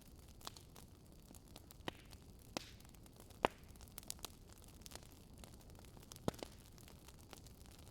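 Wood fire crackling: irregular sharp pops and snaps over a soft steady hiss, the loudest pop about three and a half seconds in.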